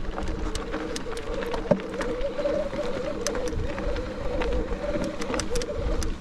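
Mountain bike rolling over a rocky trail: tyre noise with a wavering hum, many sharp rattles and clicks from the bike, and wind rumbling on the microphone.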